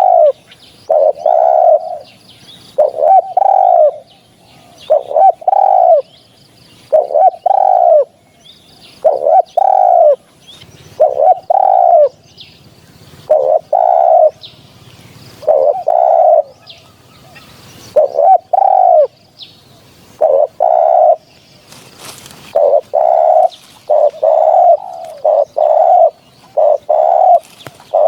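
Spotted dove cooing loudly in repeated phrases of low coos, about one phrase every two seconds, coming faster and closer together in the last several seconds. Faint, higher chirps of other small birds sound behind it.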